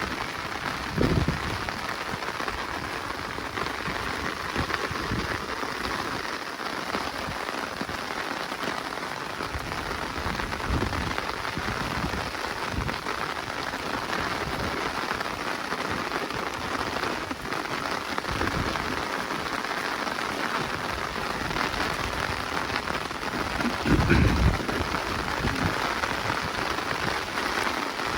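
Steady rain falling through forest, a continuous patter of drops, with a few short low thuds, the loudest about 24 seconds in.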